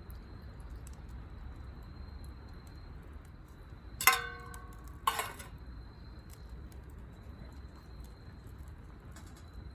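Two sharp metal clinks about a second apart, like cookware or a utensil striking metal, the first ringing briefly. Under them is a steady low rumble.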